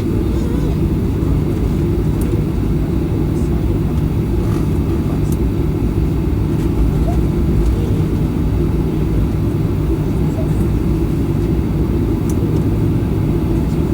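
Steady low rumble inside the cabin of a Boeing 737-800, from its CFM56 engines and airframe, holding an even level with no spool-up, plus a few faint ticks.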